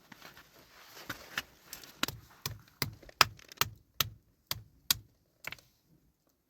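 A run of sharp, evenly spaced knocks, about two and a half a second, with a few softer taps before them.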